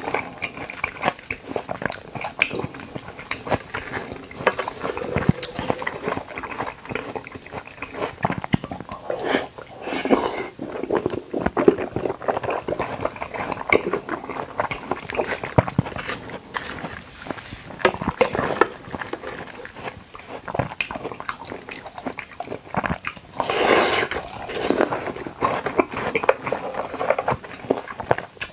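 Close-miked ASMR eating sounds: wet, squelchy biting and chewing of soft watermelon konjac jelly, made of many quick irregular smacks and clicks, with a louder stretch about ten seconds in and again near the end.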